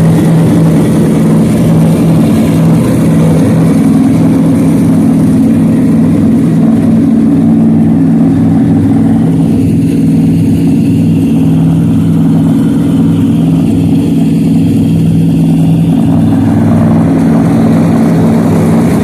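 Boat engine running steadily at idle after its spring start-up, a loud, even hum with no change in speed.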